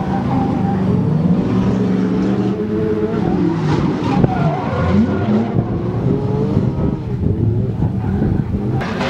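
Drift car's engine revving hard under driving, its pitch climbing and dropping repeatedly as the throttle is worked.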